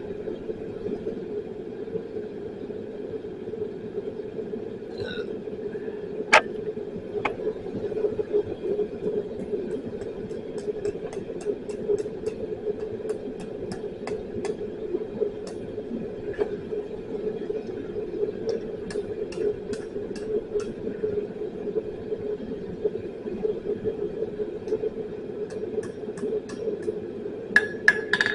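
A blacksmith's forge running with a steady roar while the steel heats. Scattered light ticks and clicks sound over it, with one sharp clink about six seconds in.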